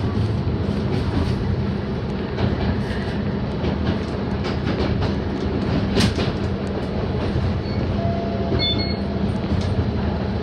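Toyama Chihō Railway electric train running, heard from inside the car: a steady low running hum with wheels clicking over rail joints, and one louder clack about six seconds in.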